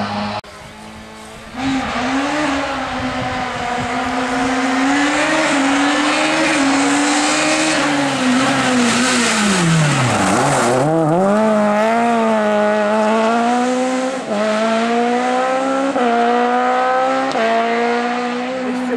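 Rally car engine held at high revs, the pitch dropping sharply about ten seconds in as it comes off the throttle for a corner, then climbing again through several quick upshifts as it accelerates away.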